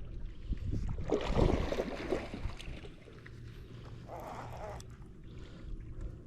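River water splashing and sloshing around a kayak, loudest between about one and two seconds in, with a shorter splash about four seconds in.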